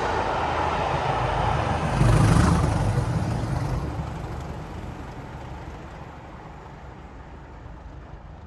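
Passing train's running noise, loudest about two seconds in, then fading steadily as it draws away.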